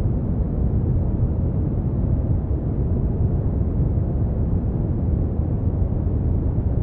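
Steady brown noise: a deep, even rumbling hiss, strongest in the low end and fading out toward the treble, with no changes.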